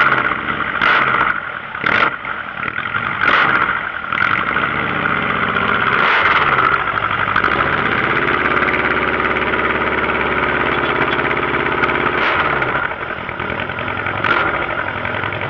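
A vehicle engine running and being revved, its pitch rising and falling over the first several seconds with a few short sharp sounds, then held at a steady speed for a few seconds before dropping back near the end.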